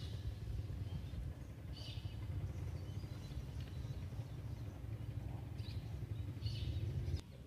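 Birds chirping in short calls every couple of seconds over a steady low rumble, which cuts off abruptly near the end.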